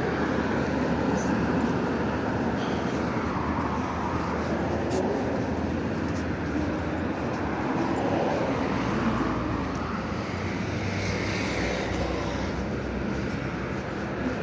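Steady rumble of road-vehicle noise, even and unbroken throughout.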